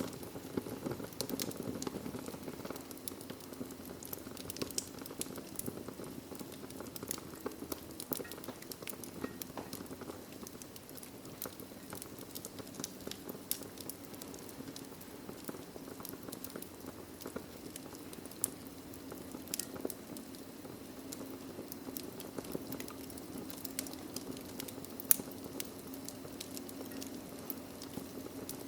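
Wood fire crackling in a fireplace: scattered sharp pops and snaps over a steady low rush of the burning fire, with one louder pop about 25 seconds in.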